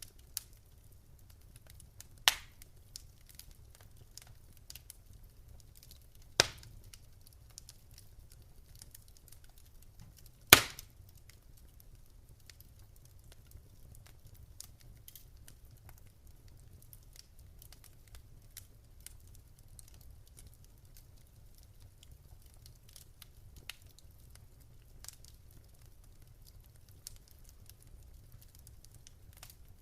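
Wood fire in a fireplace crackling softly, with three sharp pops about two, six and ten seconds in, the one near ten seconds the loudest.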